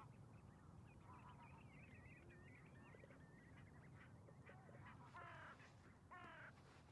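Faint wild bird calls: a quick chatter of many small high calls, then two longer, lower calls near the end, over a low steady rumble.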